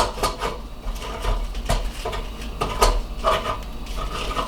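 Irregular light clinks and knocks of kitchen items being handled (oil bowl, basting brush and frozen chicken strips on a metal cooking rack) while the strips are coated with oil.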